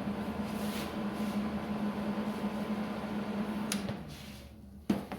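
Electric welder running on a steel bumper with a steady hum, stopping a little under four seconds in, followed by two sharp knocks near the end.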